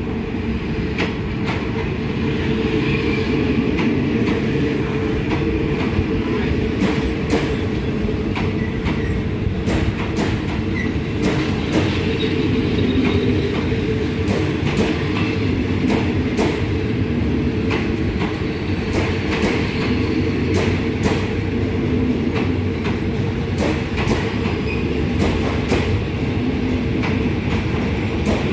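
Railway passenger coaches rolling past along the platform: a steady low rumble of wheels on track, with irregular sharp clicks as the wheels cross rail joints and now and then a faint wheel squeal.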